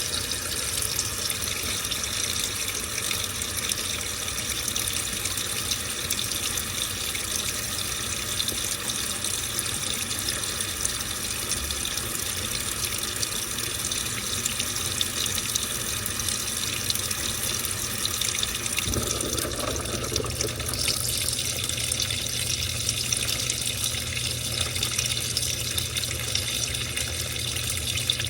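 Washing machine with water running into the drum, a steady rushing pour; about two-thirds of the way through the sound shifts and gains a deeper rumble.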